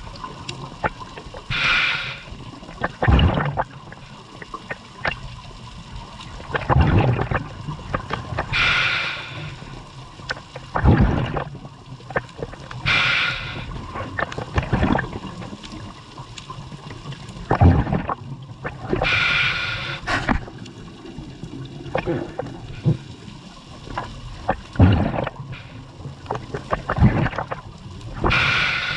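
Scuba diver breathing through a regulator underwater. A short hiss on each breath in is followed by bubbling gurgles as the breath goes out, about every six seconds.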